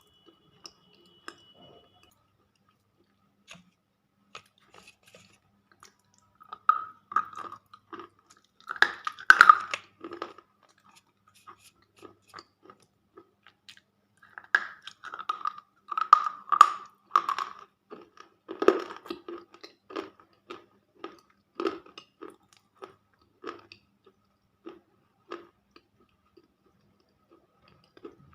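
Someone biting and chewing slate pencils: crisp crunches in clusters with short pauses between, loudest about nine and seventeen seconds in, then sparser single crunches.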